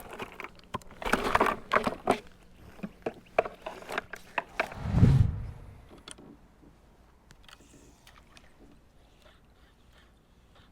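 Clatter and knocks of gear being handled on a plastic fishing kayak, with one heavy, deep thump against the hull about five seconds in, then only faint ticks.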